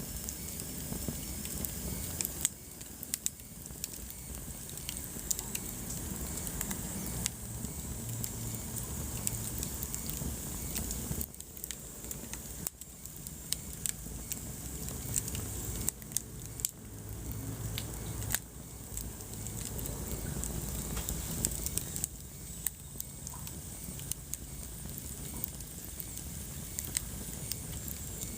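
Wood fire in a fireplace crackling, with frequent sharp pops and snaps over a low steady rumble of the flames.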